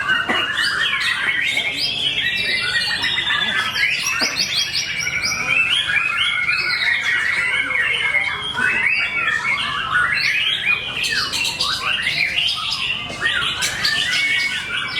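White-rumped shamas (murai batu) singing continuously. Dense, overlapping phrases of rapid whistles, trills and harsh chattering notes pour out without a break.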